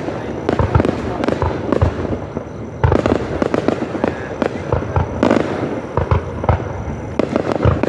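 Fireworks going off in quick succession: a dense run of bangs and crackling bursts, with a louder cluster of bangs about three seconds in.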